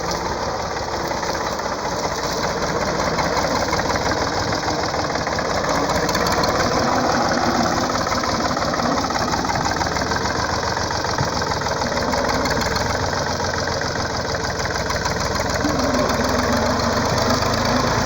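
The engine of an old KD12 tractor running steadily while it works, a dense rapid firing rhythm that builds a little over the first few seconds and then holds.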